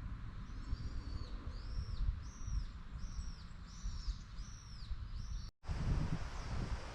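A songbird calling a steady series of short, arched, high notes, about two a second, over low wind rumble on the microphone. The calls stop at a cut about five and a half seconds in, after which only the wind rumble is left, louder.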